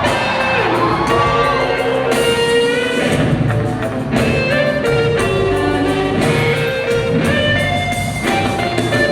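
Live pop-rock band playing an instrumental passage: a guitar carries the melody with sliding notes over drums and bass, with no singing.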